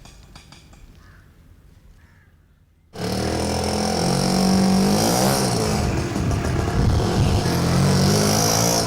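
Faint background sound for about three seconds, then an auto rickshaw's small engine cuts in suddenly and loud, running with its pitch rising and falling once as it revs.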